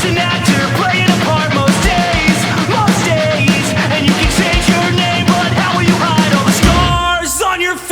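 Loud rock band music with guitars, bass and drums. Near the end the drums drop out for about a second under a held low note and a bending guitar line.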